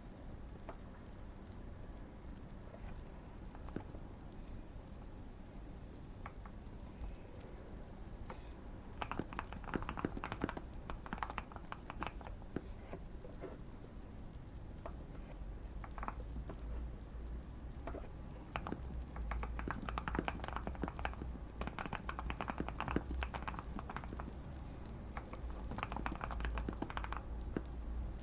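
Bursts of typing on a modded Keychron Q1 mechanical keyboard: quick runs of deep, thocky key clicks with pauses between them. Soft fire crackling sounds underneath.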